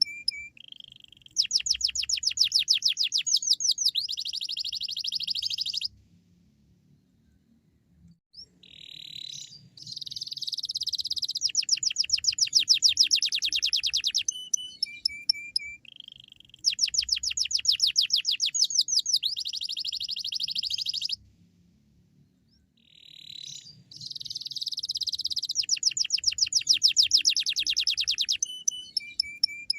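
Canary singing in full voice: long, very fast high trills and chirps in phrases several seconds long, broken twice by pauses of about two seconds. The same song sequence comes round again about halfway through.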